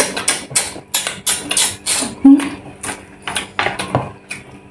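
Close-up eating sounds: wet chewing and lip smacking, a quick irregular run of sharp clicks several times a second, with a brief hum partway through.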